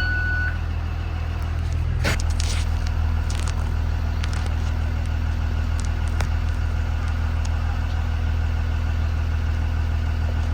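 2020 Blue Bird Vision school bus engine idling steadily with a low hum, heard from the front of the bus. A short beep sounds at the very start, and a sharp short hiss comes about two seconds in, followed by a few faint clicks.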